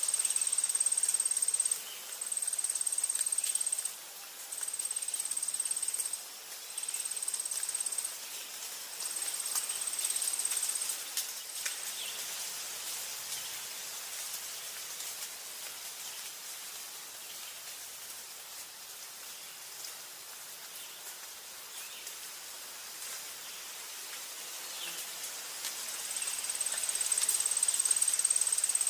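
High, steady insect trilling, cricket-like, in runs of about a second and a half with short gaps, stopping after about twelve seconds and coming back steadily near the end, over a faint even background hiss of forest ambience.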